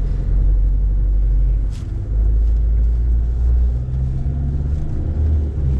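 Low, steady rumble of a vehicle's engine and road noise, heard on board while driving slowly. It dips briefly about two seconds in.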